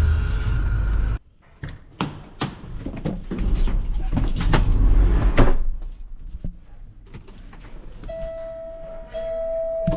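A snowplow's hydraulic pump whines steadily and stops abruptly about a second in. Several knocks and clunks follow, with a low rumble in the middle. Near the end a steady electronic warning chime sounds, broken briefly about once a second.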